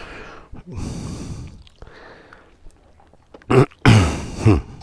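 A man breathing out noisily a couple of times, then a few short, loud vocal sounds from him near the end.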